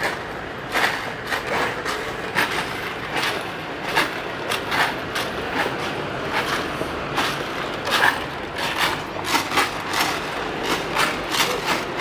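Busy street noise, with frequent irregular sharp clicks and knocks, about one to two a second.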